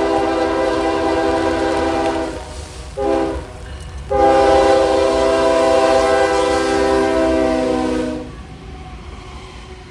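Diesel freight locomotive's air horn sounding a chord: the end of a long blast, a short blast, then a long blast of about four seconds, the tail of the grade-crossing signal. A low train rumble runs underneath and carries on after the horn stops.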